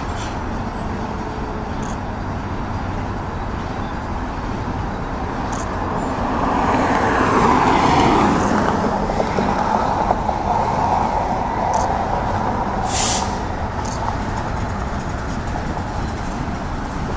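Double-stack intermodal train's well cars rolling past on steel rails, a steady rumble and clatter of wheels that grows louder for a few seconds around the middle. A short hiss comes about two-thirds of the way through.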